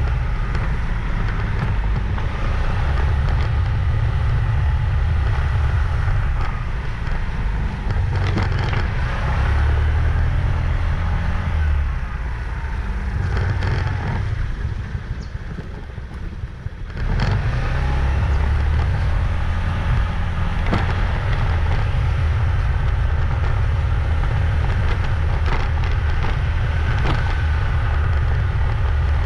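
Motorbike riding along a road: a steady low rumble of engine and road noise, easing off for a couple of seconds a little past halfway before picking up again.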